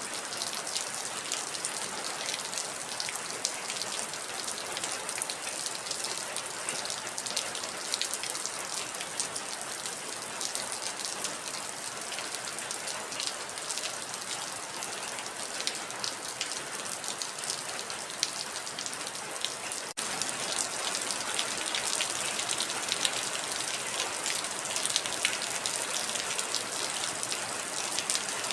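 Heavy rain falling steadily: a dense hiss full of distinct drop impacts. There is a split-second gap about twenty seconds in, after which the rain is slightly louder.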